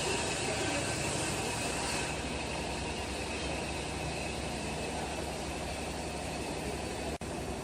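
Steady mechanical running noise, like an engine or a machine working, with a brief dropout near the end.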